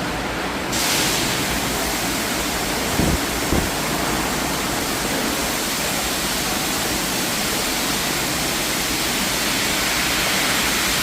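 Steady rush of water with no tones, like surf, growing brighter a little under a second in. Two brief thumps come about three seconds in.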